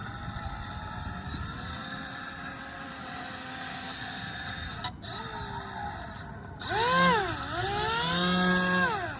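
Electric RC airplane motor and propeller of a scratch-built RC airboat, on a 4-cell LiPo, running with a whine that shifts in pitch with the throttle. It runs low and steady at first, then about two-thirds of the way in it throttles up sharply, dips and rises again, holds high briefly and winds down near the end.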